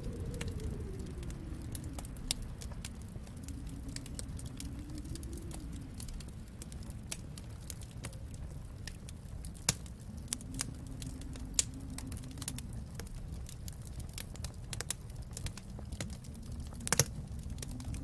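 Wood fire crackling in a fireplace, with many scattered sharp pops and snaps, the loudest about a second before the end, over a steady low rumble with a faint tone that slowly swells and fades.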